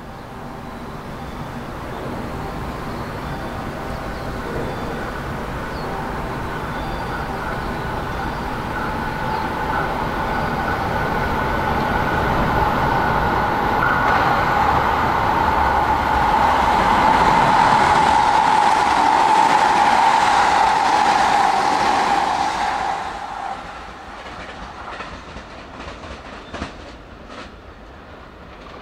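Electric train running close by: a steady motor whine over rail rumble grows louder for about twenty seconds, then falls away suddenly, leaving wheels clicking over rail joints.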